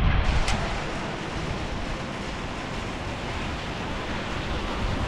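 Heavy rain pouring down in a steady hiss, with a single short click about half a second in.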